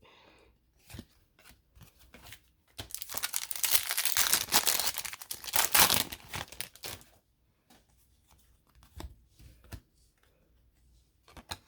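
A hockey card pack wrapper being torn open and crinkled for about four seconds, starting about three seconds in, with a few light clicks and rustles of handling before and after.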